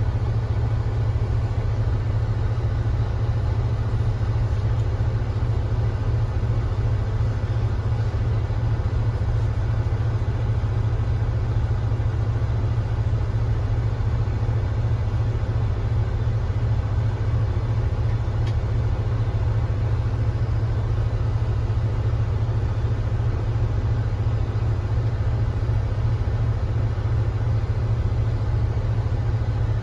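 Kia Granbird Sunshine coach engine running steadily, a constant low drone with no rise or fall in pitch.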